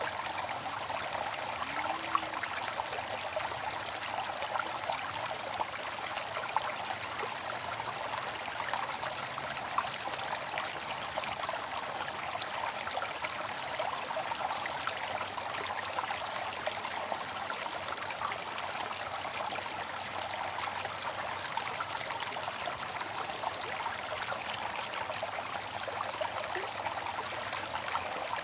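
Water fountain splashing and trickling steadily, a continuous bright patter of falling water.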